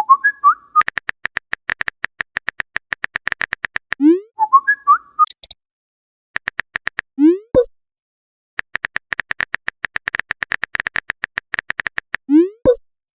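Text-chat sound effects: runs of quick, even typing clicks, three times broken by a short rising whistle and a brief chirp, as messages are typed and sent.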